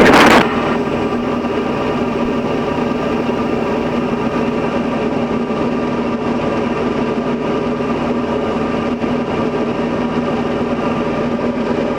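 Steady drone of a Diamond DA40's four-cylinder piston engine and propeller heard inside the cabin in flight, holding an even pitch and level. A brief loud burst sounds in the first half-second.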